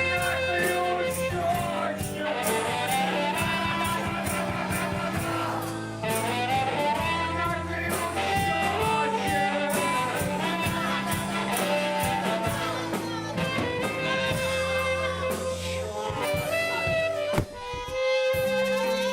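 Live band playing a blues-jazz number, with drums keeping a steady beat under a held bass line and a bright lead melody on top. Near the end the music drops briefly, then comes back in.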